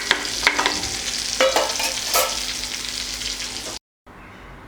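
Chicken legs frying in oil in an open pan: a steady sizzle with several sharp crackles. It cuts off suddenly near the end, and a fainter hiss follows.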